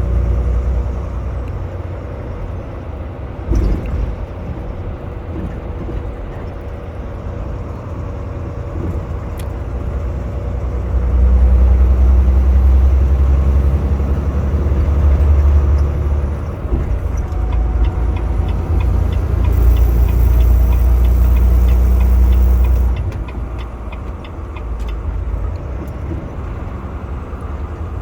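Semi truck driving on the highway, heard from inside the cab: a steady low engine and road rumble that grows louder for several seconds twice in the middle. A single knock comes a few seconds in, and a fast run of light ticks sounds during the second loud stretch.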